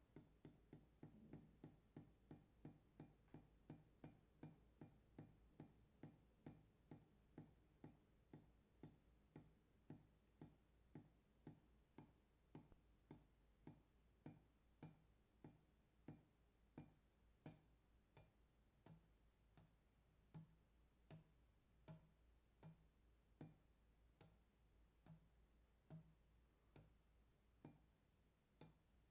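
Water dripping steadily onto metal, each drop a faint short ping with a brief ring. The drops come about two a second at first and slow to a little over one a second.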